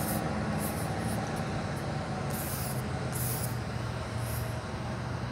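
A train rolling through a railroad grade crossing: a steady rumble, with short hissing bursts every second or so.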